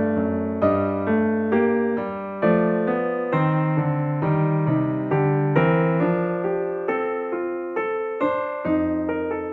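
Background music: a piano or electric piano playing a melody of struck notes, about two a second, each fading after the strike.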